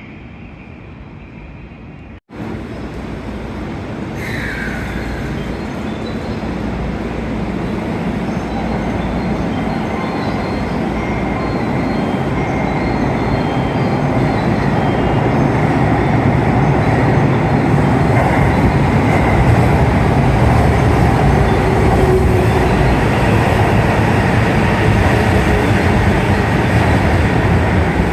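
JR Kawagoe Line electric commuter train accelerating: its running rumble grows steadily louder for about fourteen seconds, then holds at speed. A short squeal comes about four and a half seconds in.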